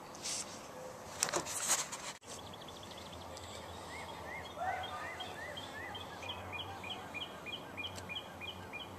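A songbird singing in the background: a short run of rising-and-falling chirps, then a string of quick descending notes about three a second. Before it come a few brief noisy bursts.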